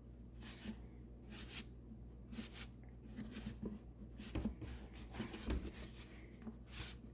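Faint rubbing and light scratching from hands handling a plastic blower tube, in short irregular strokes over a low steady hum.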